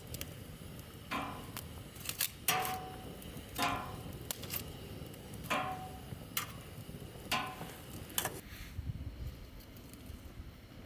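A series of about eight sharp metallic knocks, roughly one a second, each ringing briefly, as metal cookware or tools are struck.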